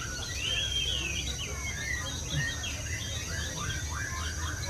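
Several white-rumped shamas singing at once, a dense overlap of varied whistles, slurred phrases and quick repeated notes.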